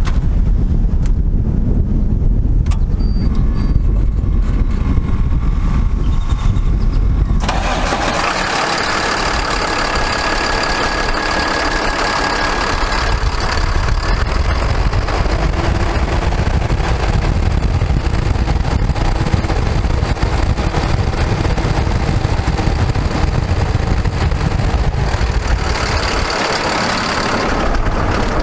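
Low rumble of wind on the microphone, then about seven seconds in the 2009 Ford F750's Cummins ISB 6.7-litre diesel engine comes in suddenly and runs steadily at idle.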